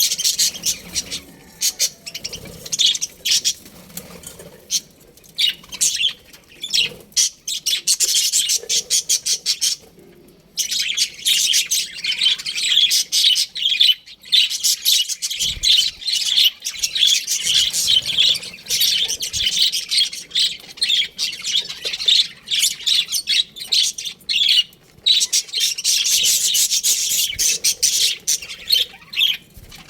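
A colony of budgerigars chirping and chattering, many rapid high chirps overlapping, with a brief pause about ten seconds in.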